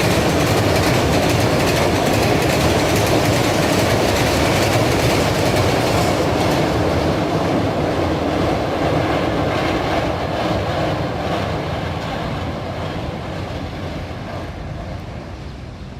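A train's wagons rolling past on the rails with a fast, continuous clickety-clack of wheels over the rail joints. It holds steady, then fades gradually over the last several seconds as the train moves away.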